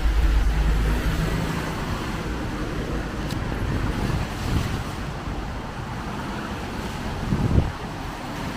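Street traffic on wet roads in heavy rain, tyres hissing over the wet surface under a steady wash of noise. Wind buffets the microphone with a low rumble in the first second, and a brief louder swell comes near the end.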